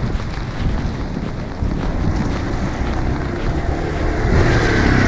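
Wind buffeting the microphone over steady street noise, with a vehicle approaching and passing close by near the end.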